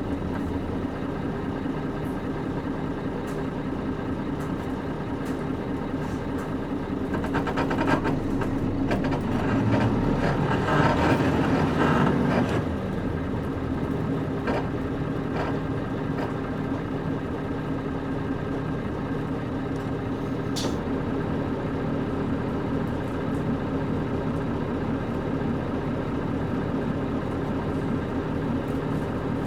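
Engine and running noise inside a KC-UA460LSN one-step bus with a PG6 engine, a steady drone. About seven seconds in it grows louder for several seconds, then drops back suddenly, with a few faint clicks along the way.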